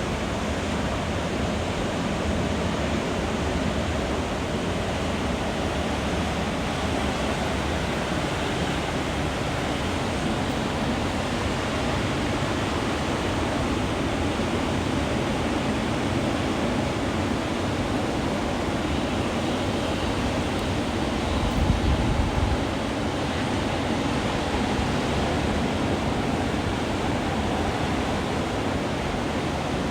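Atlantic Ocean surf: a steady, continuous wash of breaking waves. About two-thirds of the way through there is a brief low rumble.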